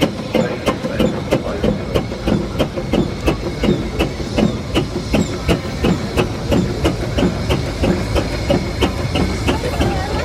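Steam traction engine running by, its exhaust beats and motion knocking in a steady rhythm of about three to four a second over a low rumble.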